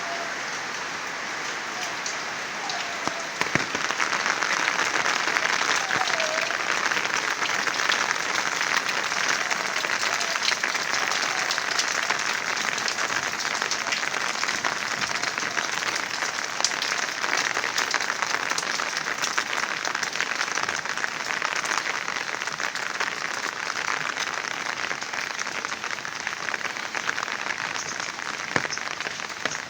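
Heavy rain falling in a steady, dense patter of drops, growing louder about three and a half seconds in.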